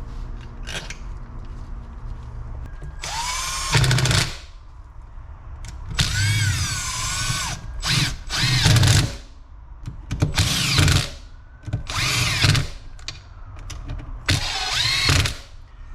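Power drill-driver running in about six short bursts, its motor whine rising and falling in pitch, driving in the screws that hold the engine case halves together.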